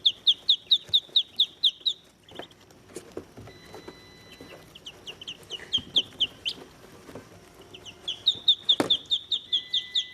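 Day-old Muscovy ducklings peeping: rapid runs of high, short falling peeps, about five a second, that pause for a few seconds and start up again. A single knock sounds near the end.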